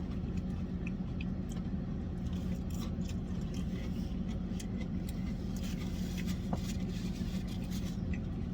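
Steady low engine hum with a faint constant tone, with scattered small clicks and scrapes over it.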